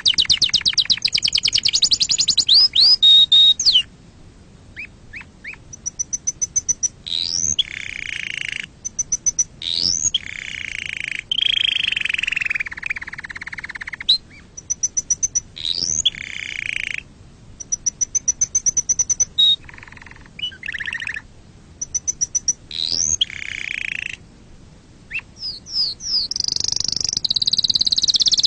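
Domestic canary singing a long, varied song: rapid trills, quick rising whistles and rolling phrases, separated by short pauses.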